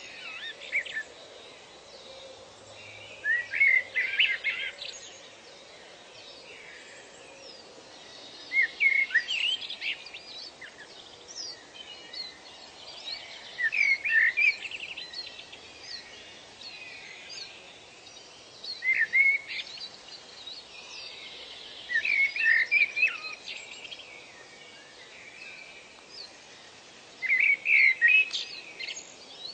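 A songbird singing short phrases of quick, sweeping chirps, six times, about every five seconds, over a steady background hiss.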